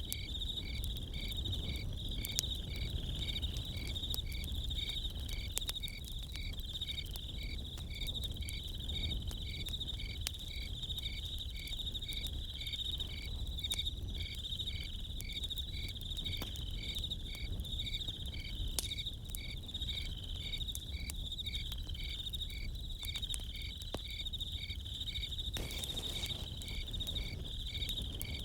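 Crickets chirping in a steady, even rhythm of about two or three chirps a second over a continuous high insect trill, with scattered sharp crackles from a campfire.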